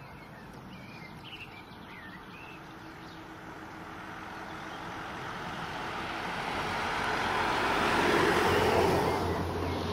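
Small birds chirping outdoors, then a passing vehicle whose noise swells steadily to a peak about eight seconds in and falls away just before the end.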